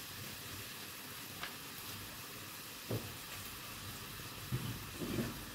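Diced chicken sizzling steadily in a steel wok, just splashed with soy sauce, with a few faint low bumps near the end.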